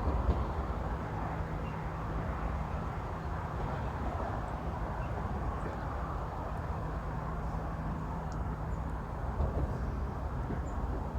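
Steady rumble of road traffic crossing the bridge overhead, with a faint hum from passing vehicles coming and going.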